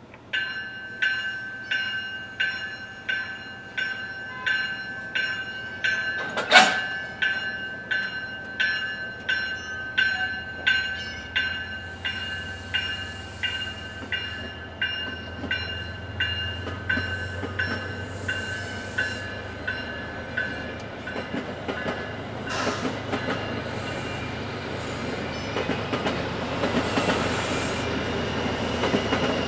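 Railroad grade crossing bell ringing at about one and a half strikes a second, with one sharp crack about six and a half seconds in. The bell stops around twenty seconds in, while an approaching commuter train's rumble and the noise of its wheels on the rails grow louder toward the end.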